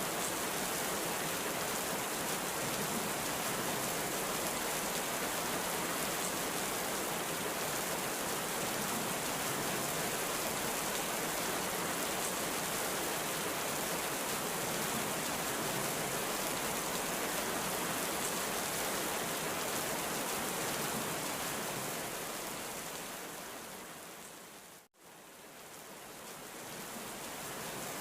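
Heavy rain falling steadily as an even hiss. Near the end it fades down to a moment of silence and fades back up, as at a loop point in the recording.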